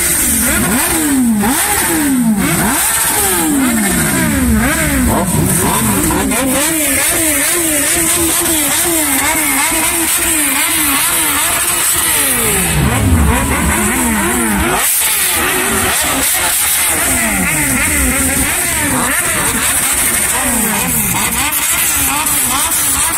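Several superbike engines revving in repeated throttle blips, their pitch rising and falling over and over, with the loudest rev a little past halfway.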